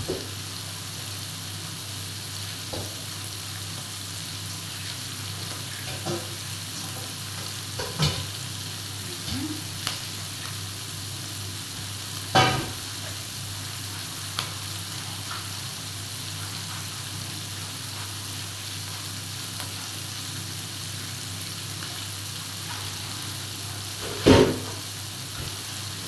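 Mixed seafood and garlic frying in oil in an electric skillet: a steady sizzle under a low hum, with a few sharp pops, the loudest near the end.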